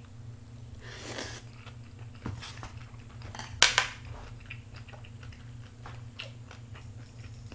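Close-up chewing of raw fish and vegetable salad (hoe-muchim), with soft wet chewing and small crisp clicks, and one louder, sharper click a little past halfway. A steady low hum runs underneath.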